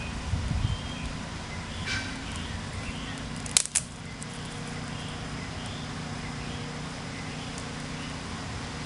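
Woodland ambience: a steady low rumble with faint short bird chirps, and two sharp snaps about a quarter second apart some three and a half seconds in.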